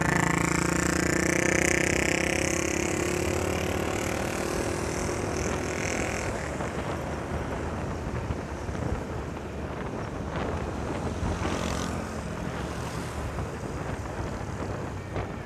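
Motorcycle riding along a highway: engine and road noise, with an engine tone that slowly drops in pitch over the first six seconds, then mostly steady wind and road rush.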